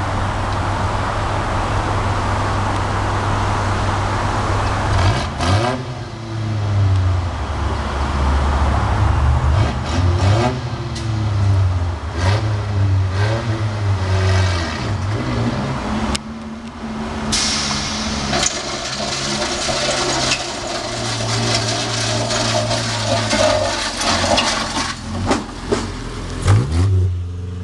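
Truck engine running, revving up and falling back several times.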